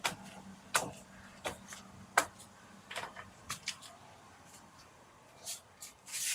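Footsteps and handling knocks as a person walks in through the tent room's entrance: a string of sharp clicks and knocks, about one every three-quarters of a second at first, then less regular, with two short rustling hisses near the end.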